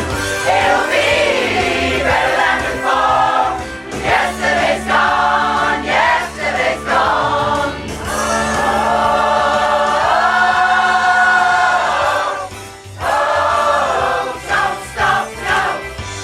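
A choir singing, with a long held note in the middle, about eight to twelve seconds in.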